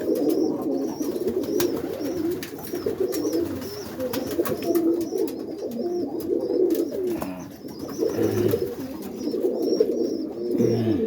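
Roller pigeons cooing in the coop, many low coos overlapping without a break.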